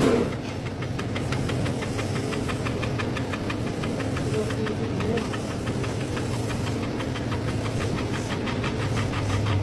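Lathe running with a steady low hum and a rapid, even ticking, about five or six ticks a second.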